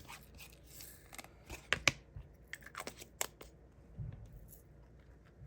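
Irregular small clicks and pops from diamond-painting drills being pressed onto the sticky canvas.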